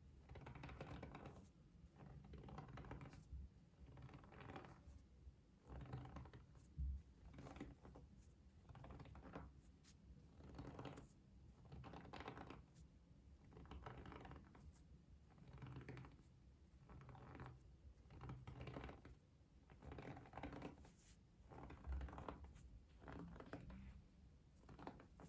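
Soft, repeated scratching strokes, roughly one a second, as in close-miked ASMR, with a light thump about 7 seconds in and another near the end.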